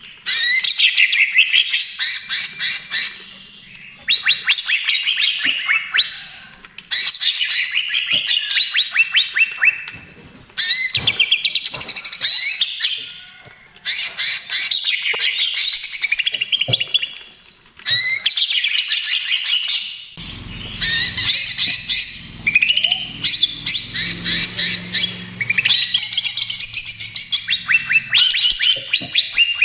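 Greater green leafbird (cucak ijo) singing a fast, rattling 'trotol' song: bursts of rapid high notes a second or two long, repeated with short pauses. From about twenty seconds in, a faint low hum sits under the song.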